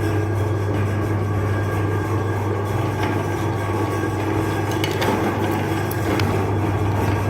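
Electric meat grinder motor running with a steady hum, with a few faint clicks about five and six seconds in.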